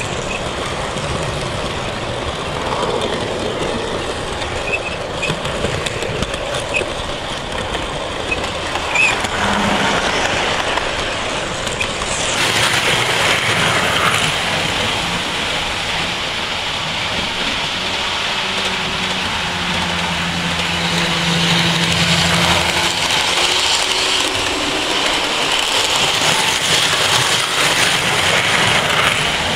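Train running along the rails with a steady rolling rumble, which turns abruptly brighter about twelve seconds in.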